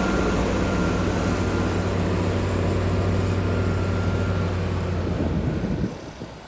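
Heavy diesel engine of earthmoving machinery running steadily at an even pitch. The sound drops away abruptly about six seconds in.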